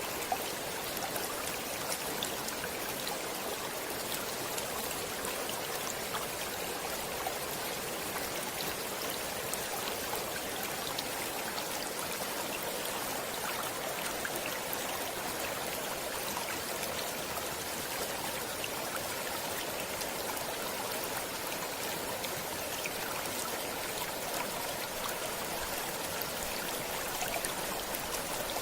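Stream water flowing steadily, with fine trickling and splashing ticks through the rush.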